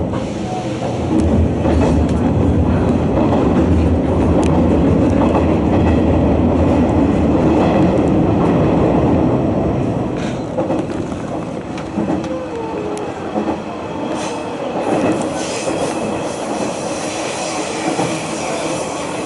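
Hanshin Railway rapid express train running along the line, heard from inside the passenger car: a steady rumble of wheels on rail with scattered clicks, easing off somewhat about ten seconds in.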